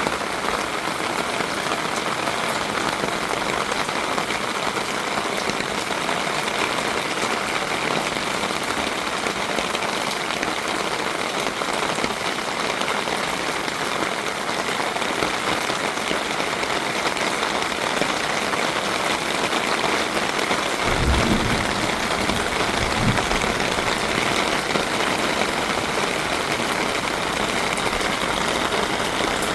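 Heavy rain pouring down steadily, an even hiss of rain on surfaces. About two-thirds of the way through, a brief low rumble sounds under it.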